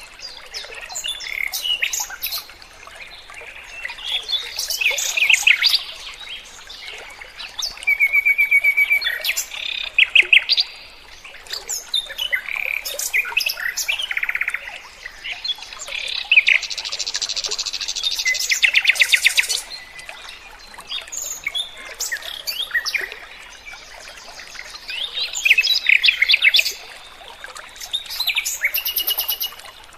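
A songbird singing a varied song: phrases of chirps, fast trills and rapid buzzy rattles, in bursts of a second or two with short pauses between.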